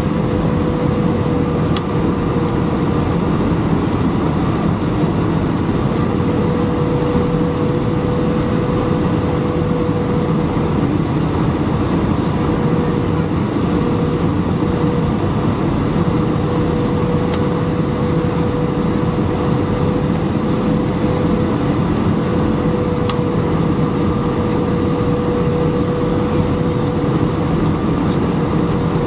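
Cabin noise inside an Airbus A319: a steady rush of engine and airflow noise with a constant hum at one pitch.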